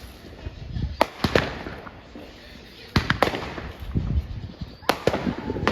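Fireworks exploding: sharp bangs coming in quick pairs about every two seconds, with smaller pops and crackle between them.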